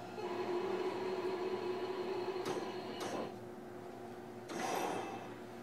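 JR Kyushu 305 series electric train standing at a station, heard from inside the car: a steady electrical hum from the train's onboard equipment for about three seconds, with two light clicks, then quieter, and a short burst of noise near the end.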